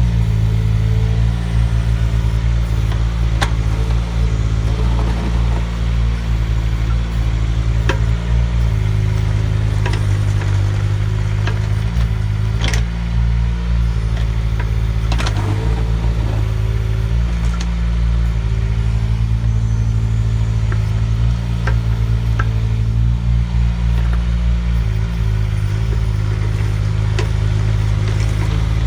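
Mini excavator engine running steadily while the machine works, with a higher whine that shifts in pitch and a few sharp clanks along the way.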